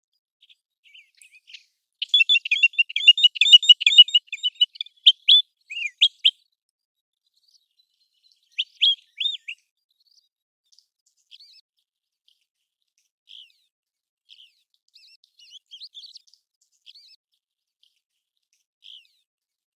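American golden plover calls: a quick run of short, high whistled notes lasting about four seconds, then two louder slurred notes a few seconds later, then faint scattered calls.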